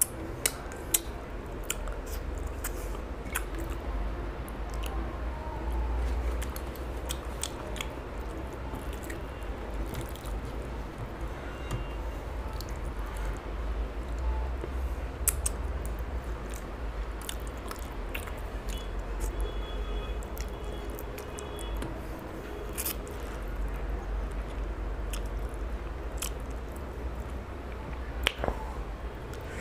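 Close-up chewing and mouth noises of a person eating rice and fish curry by hand, with many short, scattered clicks over a low steady hum.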